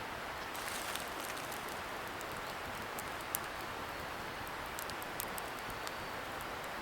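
Wood campfire crackling, with scattered sharp pops and one louder snap about halfway through. The fire sounds over a steady hiss from a distant river.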